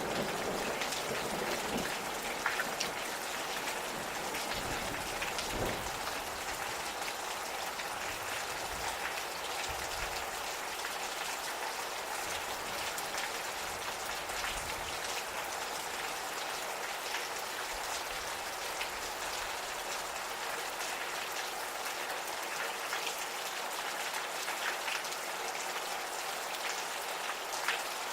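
Gentle, steady rain falling, with many individual drops ticking on surfaces.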